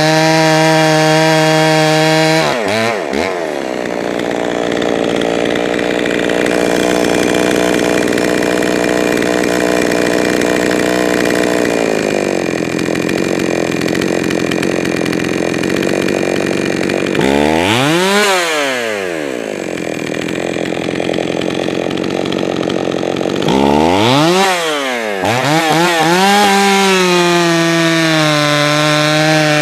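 Jonsered 525 two-stroke chainsaw engine running. It idles at first, is revved up about two and a half seconds in and held at high speed, then drops and revs again twice before settling back to idle near the end.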